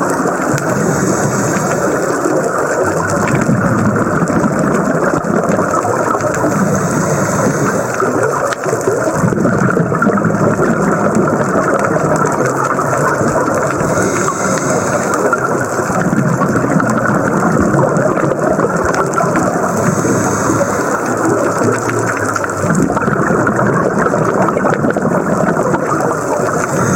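Underwater noise from a scuba dive: a steady rushing rumble with a hiss that recurs about every six seconds, in time with a diver's regulator breathing.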